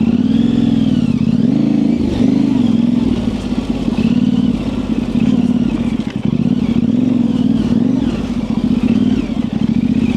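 Yamaha Ténéré 700's parallel-twin engine through an aftermarket high exhaust, running at low revs with the pitch rising and falling again and again as the throttle is worked on and off.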